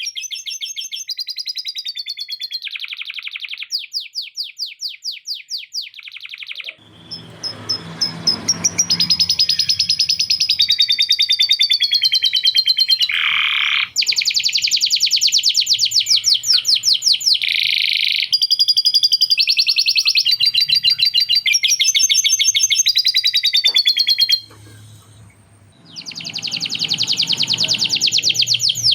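Male canary singing long runs of rapid trills and fast repeated notes, with some sliding phrases in a song filled with lovebird-style chatter. It breaks off briefly about 25 seconds in, then starts again.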